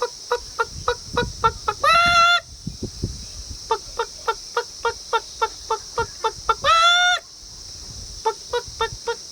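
A man imitating a hen's alarm cackle with his voice: rapid short clucks, about three to four a second, broken twice by a long, rising squawk. A steady high chirring of crickets runs behind it.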